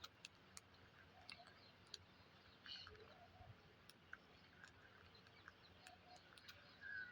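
Faint scattered clicks, a dozen or so at irregular intervals, with a few soft short chirps from pet parrots.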